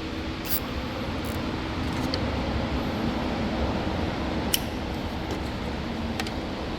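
Steady fan-like hum of background noise, with a few short, light clicks scattered through it, the sharpest about four and a half seconds in.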